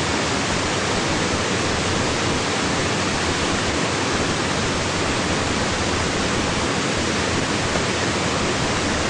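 Waterfall: a steady rush of falling water that fills the whole range, unchanging throughout.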